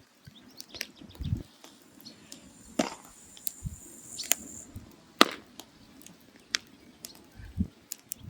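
Burning firewood crackling: irregular sharp pops and cracks with a few dull low knocks, the loudest crack about five seconds in.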